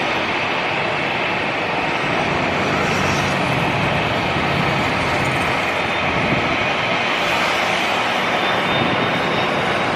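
Airliner engines running, a loud steady rushing noise with a faint high whine coming in near the end.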